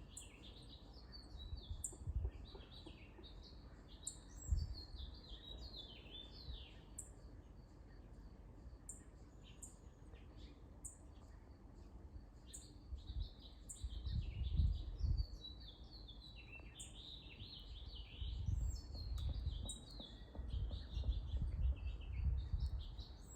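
Small songbirds chirping back and forth: many short, high calls in quick runs, some overlapping, all the way through, from fledglings and their parent. Low rumbling noise on the microphone comes and goes, strongest in the middle and near the end.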